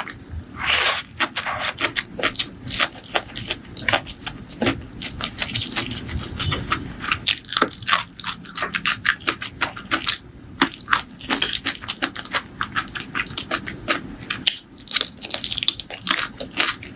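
Close-miked eating sounds: irregular crunchy bites and wet chewing of a meal of prawns, rice and bird's eye chilli, many sharp crunches a second.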